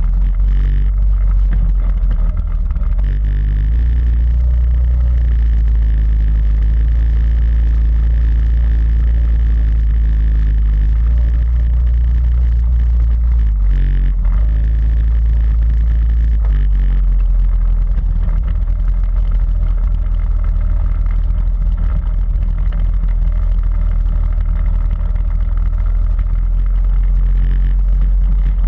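Quad bike engine running while riding off-road, with a steady drone whose note shifts a few times.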